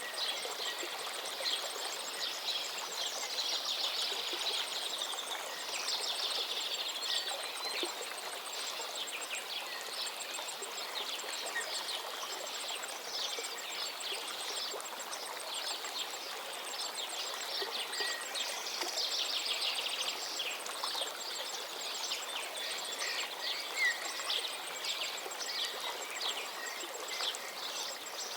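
Flowing river water rushing steadily, with many small birds chirping and calling in short bursts over it.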